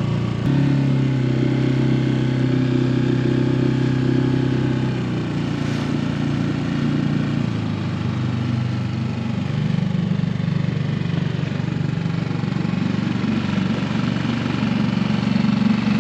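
A small outboard motor pushing a dinghy, running steadily. Its engine note rises about half a second in and drops back to a lower speed about seven seconds in.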